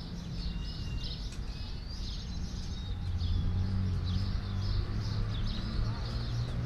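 Small birds chirping repeatedly over a low, steady rumble that grows louder about halfway through.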